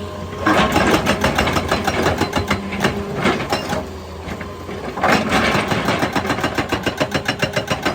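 Excavator-mounted hydraulic breaker hammering rock in a fast, even rattle of about seven blows a second, over the running excavator engine. The hammering gets louder about half a second in and again around five seconds.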